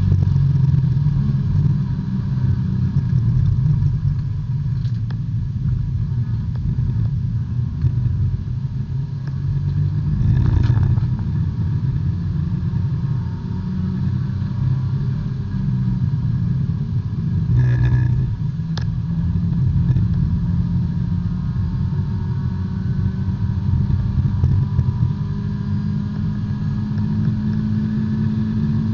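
B-Spec race car's four-cylinder engine running at speed, heard from inside the cabin, its pitch shifting as the revs change, with brief sharp knocks about ten and eighteen seconds in.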